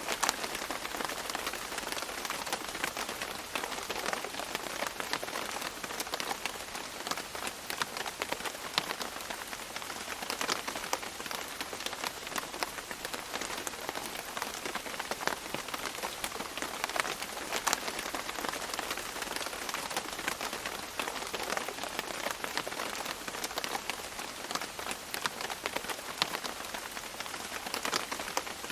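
Steady tropical rain falling on leaves, a dense hiss full of individual drops pattering and dripping.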